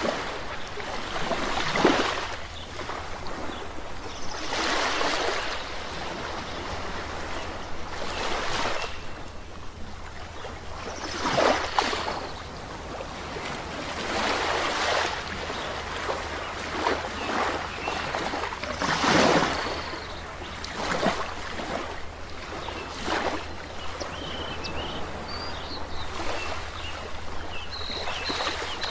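Small sea waves washing onto a shore, breaking in irregular surges every few seconds. A few faint bird chirps come in near the end.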